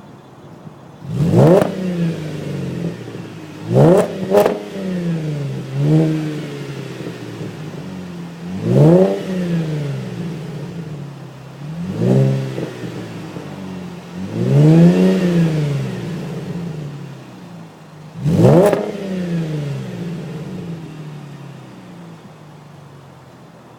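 2010 Camaro V6 with a Magnaflow cat-back exhaust, blipped from idle about eight times. Each rev climbs quickly and drops back to idle, and one about two-thirds of the way through is held a little longer.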